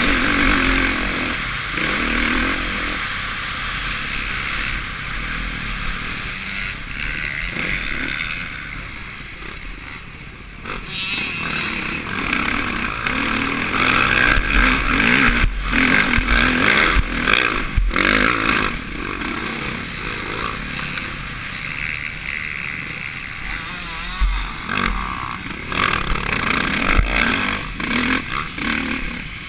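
Suzuki RM-Z450 single-cylinder four-stroke motocross engine being ridden hard, revving up and easing off through corners and straights, with the throttle shut off about ten seconds in before it picks up again. Wind rushes over the helmet-mounted microphone, with occasional knocks and rattles.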